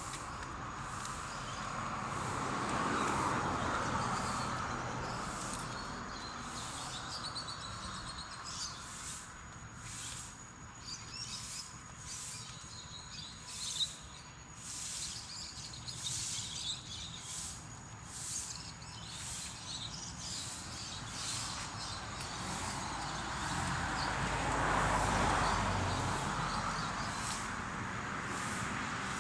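Outdoor ambience: short high chirps repeat steadily about once or twice a second over a faint steady high hum. A vehicle passes early on and again near the end, its noise swelling and fading.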